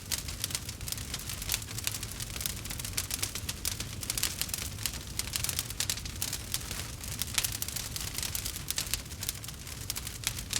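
Campfire burning with dense, irregular crackling and popping over a steady low rumble of flame.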